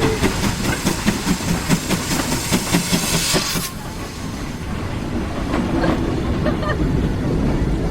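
Steam-hauled train running along the track, with a regular beat of about three a second; about halfway the sound turns duller and steadier.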